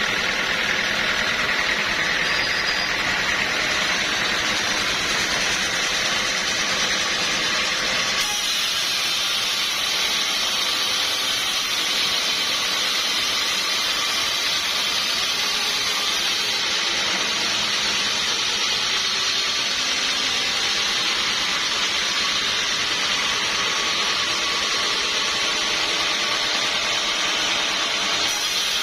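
Sawmill saw cutting through a log: a loud, steady, high-pitched mechanical noise that shifts abruptly in tone a few times.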